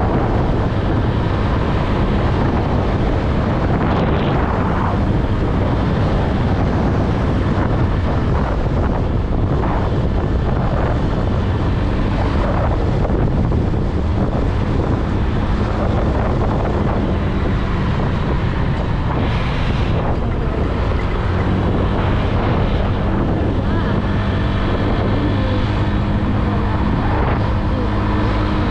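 Honda Click 125i scooter's single-cylinder engine running steadily while riding, under heavy wind noise buffeting the microphone.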